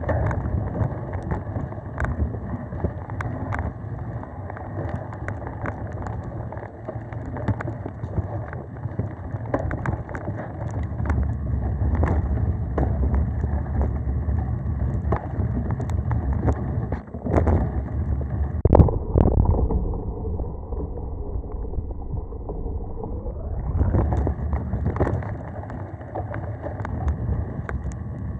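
Mountain bike ridden on singletrack: wind rushing over the microphone, with tyre noise on the dirt and frequent clattering knocks from the bike over bumps and roots. The rushing goes duller for a few seconds about two-thirds of the way through, then picks up again.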